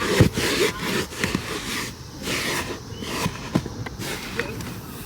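Hand wiping a car's wet body with a cloth: repeated rubbing strokes in a back-and-forth rhythm, with a few faint squeaks.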